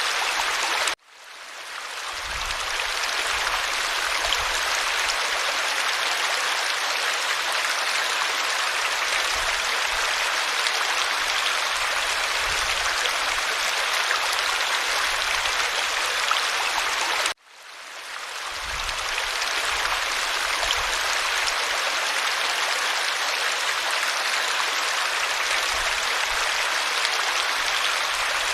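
A creek's flowing water, a steady rushing. About a second in, and again about seventeen seconds in, it cuts out suddenly and fades back up over a second or two.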